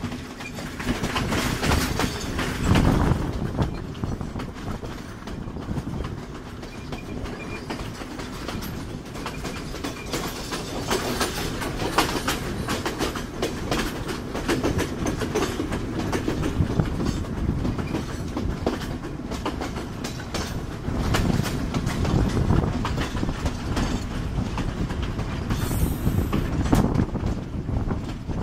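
Moving passenger train's wheels running over the rails with a continuous clickety-clack of dense, rapid clicks, heard through an open carriage window. It swells louder a couple of seconds in and again near the end.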